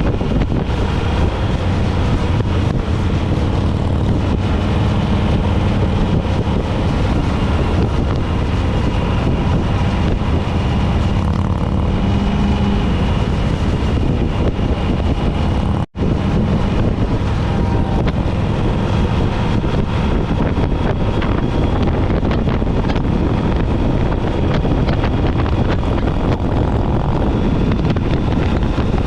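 Motorcycle riding at road speed: steady engine rumble under heavy wind buffeting on the microphone. The sound cuts out for an instant about halfway through.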